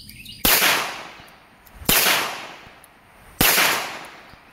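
Three .22 rimfire gunshots about a second and a half apart, each a sharp crack with a short fading echo, from a small old Iver Johnson .22.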